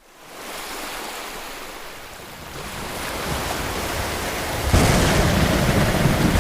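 Heavy rain with wind, a steady rushing hiss that fades in from silence. About three-quarters of the way through it grows suddenly louder, with a deep rumble underneath.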